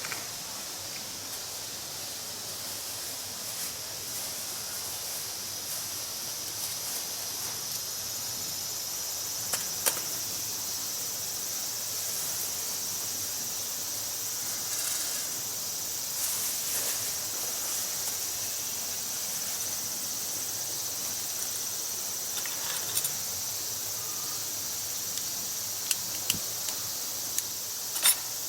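Insects chirring steadily in a high-pitched, even drone, with a few short sharp clicks scattered through, the loudest near the end.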